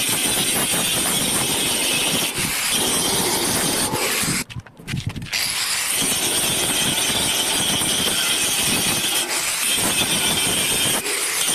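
Electric arc welding on iron bar stock: a steady, loud crackle and hiss of the arc, which breaks off for under a second about four and a half seconds in and then strikes up again.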